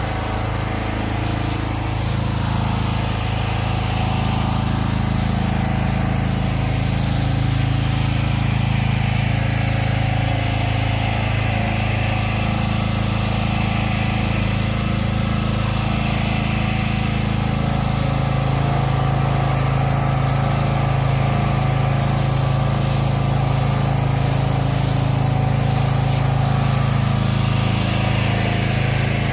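A pressure washer's gas engine and pump running steadily under load, with the hiss of spray from the wand.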